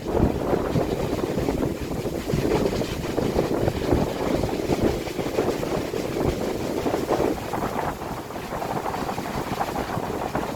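Strong wind blowing in uneven gusts, with wind noise on the microphone.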